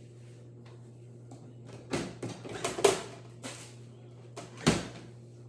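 Handling noises: a cluster of soft knocks and rustles about two to three seconds in, then one sharper knock near the end, over a steady low hum.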